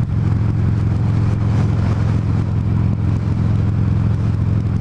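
Buell XB12Scg motorcycle's air-cooled 1203 cc V-twin engine running at a steady, low speed, its note holding even throughout.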